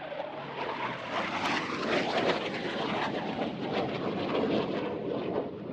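Engine roar of an airplane passing the airfield. It builds quickly, is loudest a couple of seconds in, then begins to fade.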